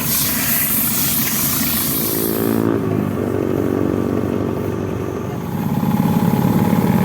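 Motorcycle engine running, with a steady hiss over it for the first two and a half seconds; the engine gets louder about five and a half seconds in.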